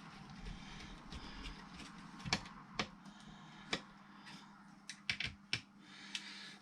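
Scattered sharp clicks and taps of small screws and parts being handled and fitted while a car radio unit's panel is screwed back together, over a faint steady hum.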